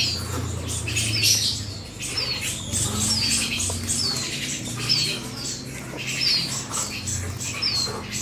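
A small caged bird chirping over and over: short, high calls that slide downward, about one a second, with rustling from the cage being handled.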